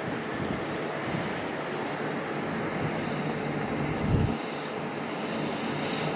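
A passing train, a steady rushing rumble, with a gust of wind buffeting the microphone about four seconds in.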